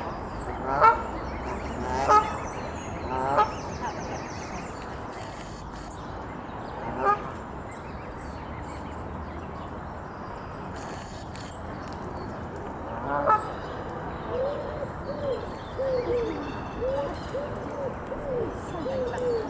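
Canada goose honking: single honks spaced a second or several apart, then near the end a quick run of about ten shorter, lower calls.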